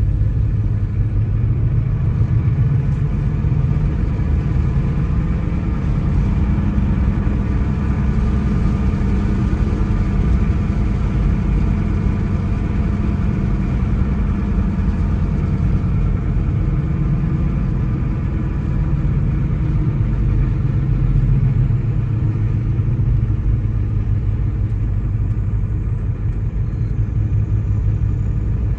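A car driving on the road: a steady low rumble of engine and tyre noise, the engine note rising and falling a little as the speed changes.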